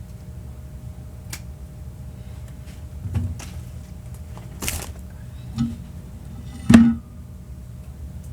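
Supplies handled on a craft table: a few knocks and clicks and a brief rustle, with the loudest knock near the end.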